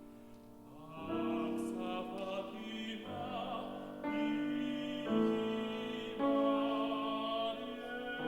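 Tenor singing a Spanish art song in classical operatic style with piano accompaniment: long held notes with vibrato, changing pitch about once a second, coming in strongly about a second in.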